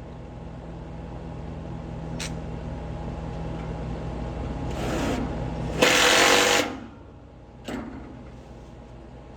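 A steady machine hum grows louder, then cuts off about six seconds in as a loud burst of hissing noise runs for under a second. A sharp click comes about two seconds in and another near the end.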